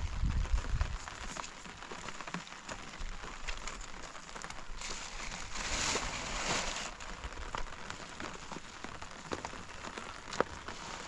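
Rain falling, with many small drop clicks over a steady hiss that swells for a couple of seconds in the middle.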